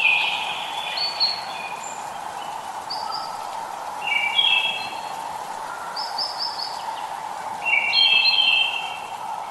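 Songbirds singing in four bursts of short chirping phrases over a steady hiss of light rain, the loudest bursts at the start and near the end.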